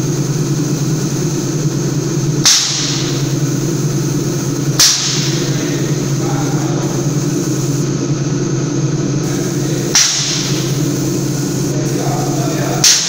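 Tornado Tiger 60.70 airless sprayer pump running steadily with a loud hum and a high hiss. A sharp knock with a brief hiss flare comes four times, a few seconds apart.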